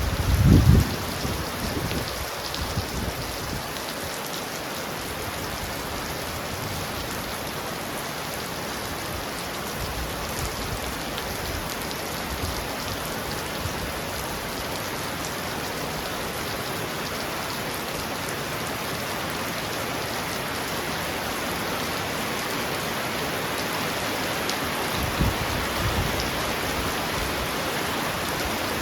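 Heavy rain falling steadily on a roof, an even hiss, with a loud low rumble of thunder about a second in and fainter rumbles near the end.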